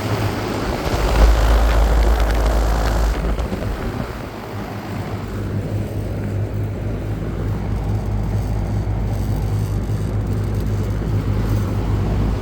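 2023 Carrier Gemini heat pump outdoor unit running: a steady low hum from the compressor under the rush of the condenser fan, with a louder rush of air from about one second in that eases off about three seconds in.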